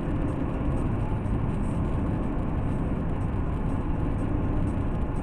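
Steady rumble of a moving car's engine and tyre noise, with no impact or change.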